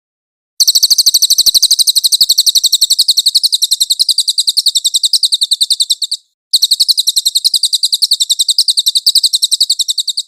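A songbird's song recording, used as a training recording for songbirds to copy. It is a long, rapid, high-pitched trill of many quick repeated chirps, in two runs with a short break a little after six seconds in.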